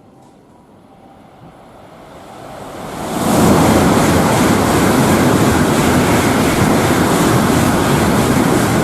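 Tokaido Shinkansen bullet train passing through the station at high speed without stopping: a rushing noise that builds over about two seconds, then stays loud and steady.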